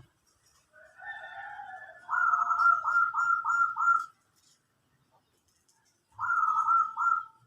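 Caged dove cooing: a softer opening phrase, then a loud run of about five quick clipped notes, and a shorter two-note phrase near the end.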